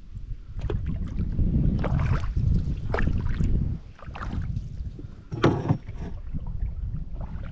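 Canoe being paddled: repeated dips and splashes of the paddles, with a sharper knock about five and a half seconds in, over wind buffeting the microphone.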